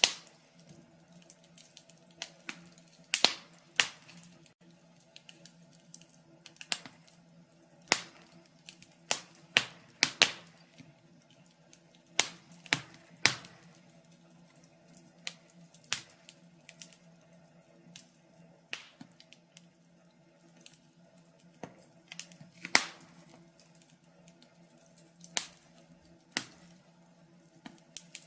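Wood fire crackling: irregular sharp pops and snaps from burning logs, some close together and a few louder ones, over a faint steady low hum.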